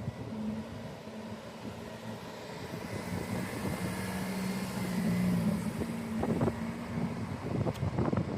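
A car drives past with its engine running, getting louder and then fading, loudest about five seconds in.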